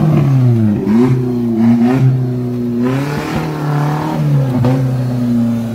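Maruti Suzuki Gypsy 4x4's engine revving up and down over and over, its pitch rising and falling about once a second, as it crawls over rough rocky ground.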